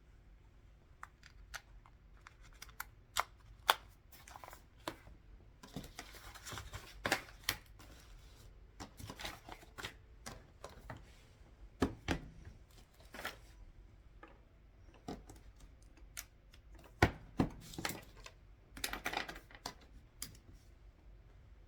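Desk work with paper and computer: irregular sharp clicks and taps, with two short bursts of rustling, one about six seconds in and one near the end.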